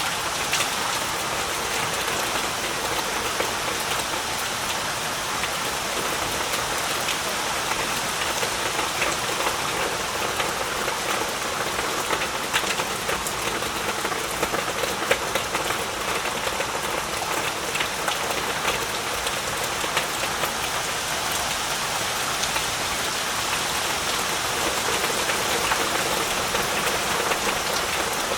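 Heavy rain falling steadily, a dense even hiss of rain with the patter of individual drops hitting surfaces.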